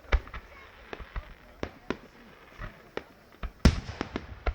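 Fireworks exploding in a string of sharp bangs at irregular intervals. The loudest bang comes about three and a half seconds in, with a brief echo after it.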